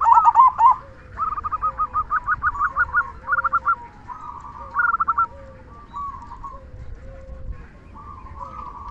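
Zebra doves (perkutut) cooing, with overlapping calls: quick runs of short staccato notes over a repeated lower 'kung' note. Loudest in the first few seconds, fainter after about six seconds.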